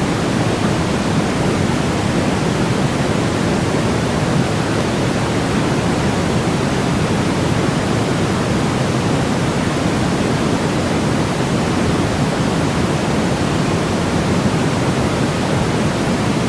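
Baby-sleep white noise: a steady, unbroken hiss, deep rather than bright, with most of its weight in the low and middle range.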